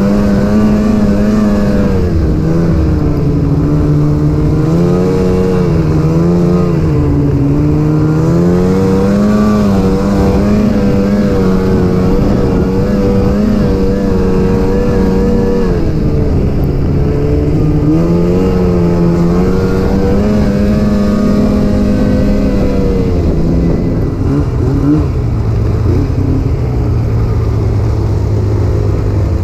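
Snowmobile engine running under way, its pitch rising and falling as the throttle is worked. Near the end it drops to a lower, steady note as the sled slows.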